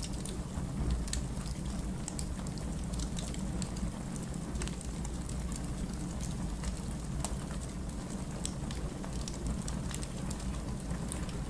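Wood fire crackling in a fireplace: many small irregular pops and snaps over a steady low rumble of burning logs.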